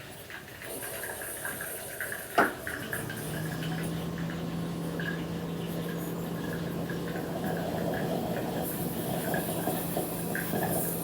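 Espresso machine starting up: a sharp click, then a steady low hum with hissing that grows slightly louder.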